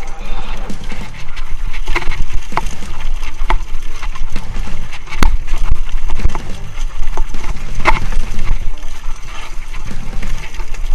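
Mountain bike ridden over a rough trail: the frame and drivetrain rattle and knock over bumps, with an occasional short squeak. Wind rumbles on the microphone throughout.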